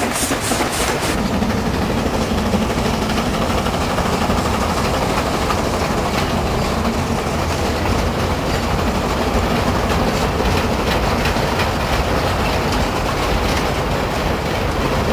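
Loaded narrow-gauge wagons of a steam-hauled clay train rolling past, with a quick clicking rhythm from the wheels that stops about a second in. It gives way to the steady rumble of the train running along the line.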